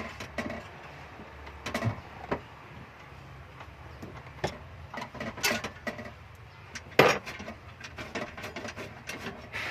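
Scattered, irregular clicks and knocks, like things being handled and set down, with one sharp knock about seven seconds in.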